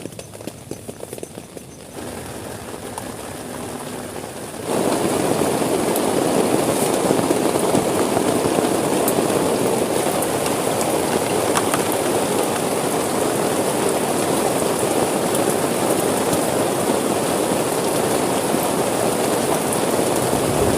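Rain falling on a tent: scattered drops and light rain at first, stepping up a little at about two seconds, then a sudden change about five seconds in to a steady heavy downpour.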